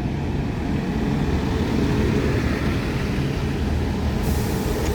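DR98 multi-purpose vehicle, a diesel track-maintenance unit, passing with a steady low engine rumble that grows a little louder over the first two seconds. A higher hiss joins near the end.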